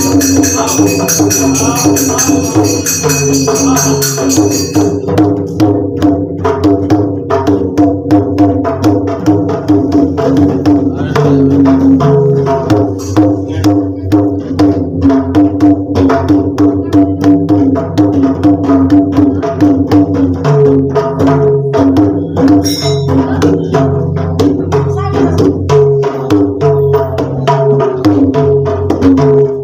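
Bhajan music: a hand drum beating a fast, steady rhythm under held melodic notes, with jhaal hand cymbals clashing for the first five seconds and then stopping.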